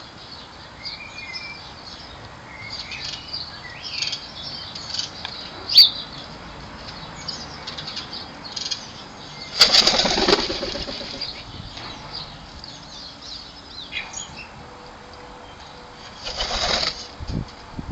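Bird wings flapping in two loud bursts, one about ten seconds in and one near the end, with scattered short songbird chirps and calls, mostly in the first half.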